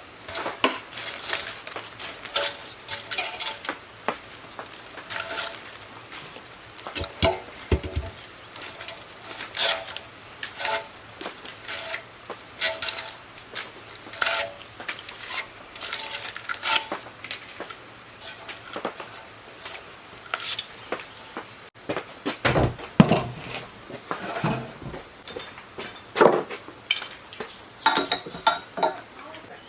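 Irregular metallic clinks, taps and knocks of hand tools and metal parts being handled, some with a brief ring, and a busier run of heavier knocks about two-thirds of the way through.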